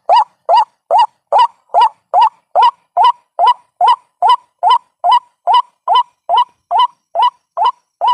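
White-breasted waterhen call played as a trapping lure: a short rising note repeated steadily, about two and a half times a second.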